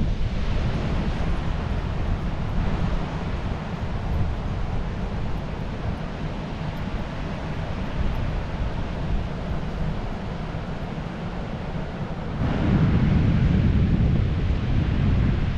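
Wind buffeting the microphone over the steady wash of surf on a beach, growing louder about twelve seconds in.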